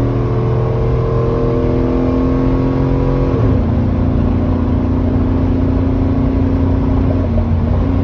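Chevy Tahoe V8 with an aftermarket Texas Speed Stage 2 cam, heard from inside the cabin while accelerating on the highway. The engine note climbs steadily, drops sharply about three and a half seconds in as the transmission upshifts, then holds nearly steady over road noise.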